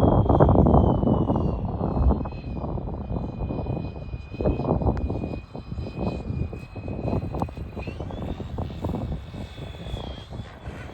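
Fly Wing FW450L V3 RC helicopter in flight: a steady high motor and rotor whine that drops in pitch about two seconds in and rises again near eight seconds as the pilot works the throttle. Uneven low wind noise buffets the microphone throughout, loudest at the start.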